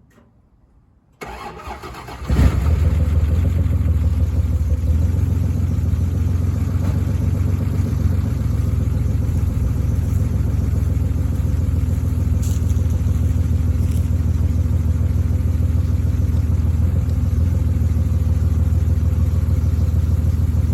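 Old Dodge's engine on a cold start: the starter cranks for about a second, the engine catches a little over two seconds in, then it settles into a steady idle.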